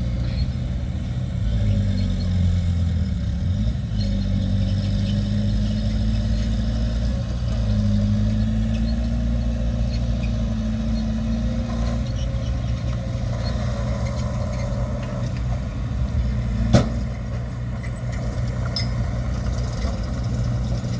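Diesel engine of heavy earthmoving machinery running steadily, its pitch rising and falling a little as it works. There is a single sharp knock about three-quarters of the way through.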